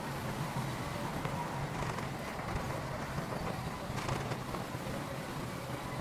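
Heavy diesel earthmoving machinery running steadily under work, a low engine rumble with a few faint knocks.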